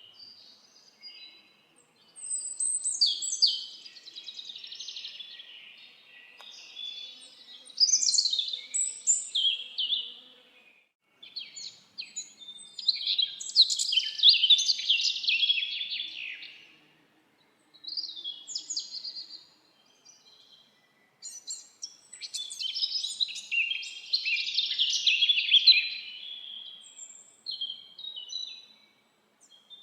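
Birds singing: five bursts of rapid, warbling song a few seconds long, with short quiet gaps between them.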